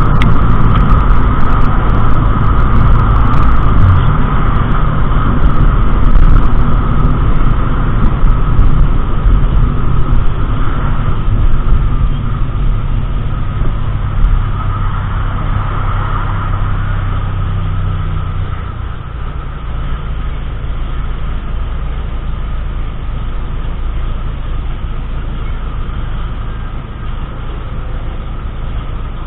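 Car driving: a steady rumble of engine and road noise, which eases off about two-thirds of the way through.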